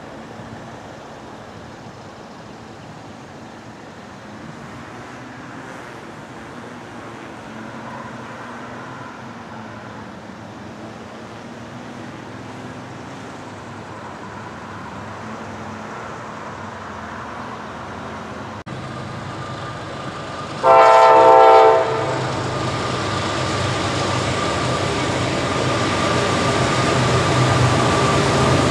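An approaching CSX freight train, its diesel locomotive rumbling and slowly growing louder. About two-thirds of the way in, the locomotive's horn sounds one loud, short blast of about a second, a chord of several tones. After it the engine drone is louder as the train nears.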